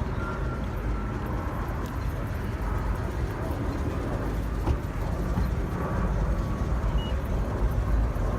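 Car engine running with a steady low rumble that grows a little louder about six seconds in.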